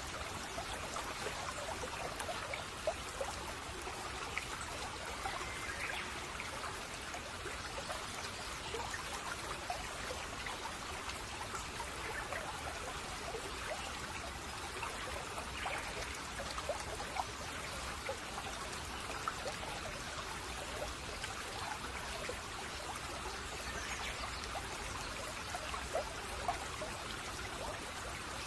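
A shallow brook babbling and trickling steadily over stones, with many small burbles and droplet splashes.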